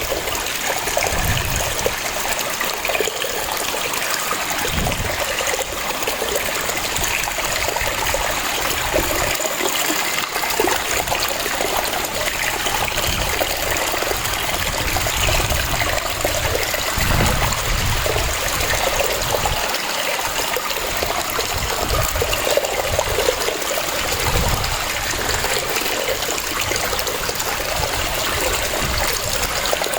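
Waterfall rushing steadily, with irregular low rumbling surges every few seconds.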